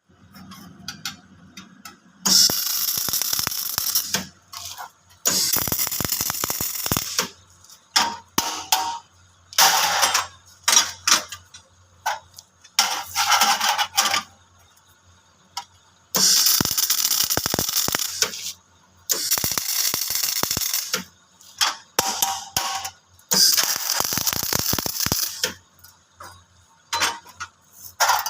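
Electric arc welding crackling in repeated bursts of one to two seconds, with short pauses between welds and a faint steady hum underneath.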